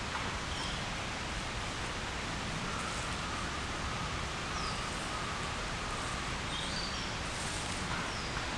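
Steady rain falling in a forest, an even hiss, with a few faint, short, high bird chirps.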